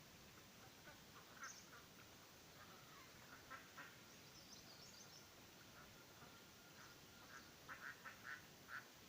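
Faint chicken calls: a hen's short clucks in quick runs, the loudest run of four or five near the end, with a few high chick peeps between.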